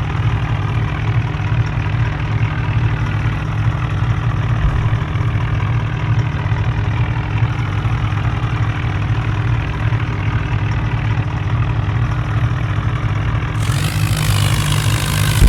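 Tractor engine running steadily with a low, even drone. Near the end a louder hiss joins in.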